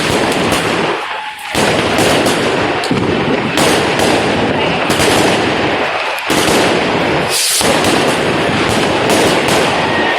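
Street fireworks and firecrackers going off in a dense, continuous barrage of rapid bangs and crackles, with a brief lull about a second in.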